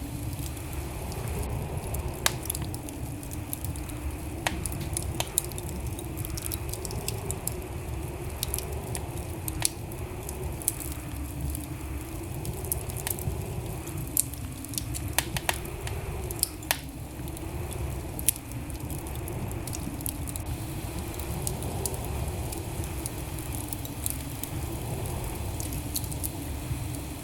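Wood fire burning in a fireplace: a steady low rumble of flames with scattered sharp crackles and pops, most of them in the first two-thirds.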